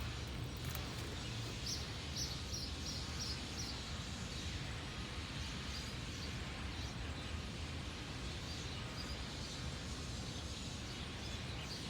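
Steady outdoor background noise with a low rumble. A bird chirps a quick run of about six high notes about two seconds in, with fainter calls later.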